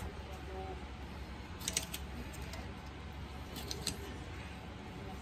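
A few light clicks and taps of kitchen utensils over a steady low hum: two small clusters of clicks, the first about a second and a half in and the second near four seconds in.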